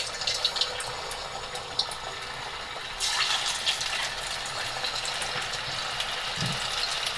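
Batter-coated potato slices deep-frying in hot oil in a kadhai: a steady sizzle with fine crackling, which gets louder about three seconds in as more slices go into the oil.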